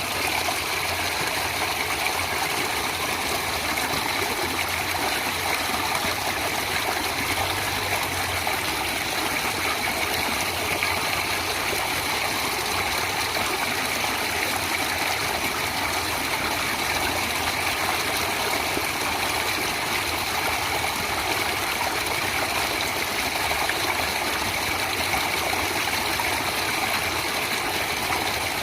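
Water flowing in a natural stream, a steady, even rush and trickle with no breaks.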